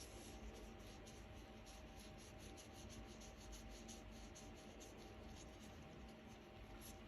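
Close-miked ear cleaning: an ear-cleaning tool scratching and rubbing in an ear, making a quick, faint run of small scrapes, with a low steady hum underneath.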